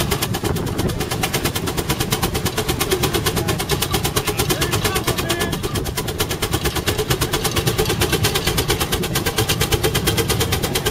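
Half-scale Case 65 hp steam traction engine working hard, its exhaust chuffing in a rapid, even stream of sharp beats.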